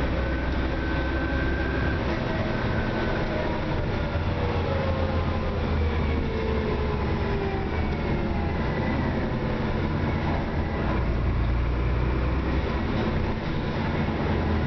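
Dennis Trident double-decker bus heard from on board while under way: a steady diesel engine drone with faint whining tones that slide down in pitch midway.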